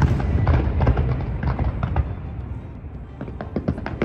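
Aerial fireworks shells bursting: a heavy boom right at the start, then a rapid string of bangs and crackles over a low rumble, with another dense cluster of sharp cracks near the end.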